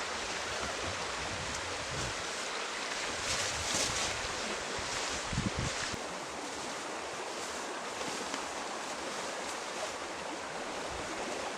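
Steady rushing of a stream, with a few faint rustles.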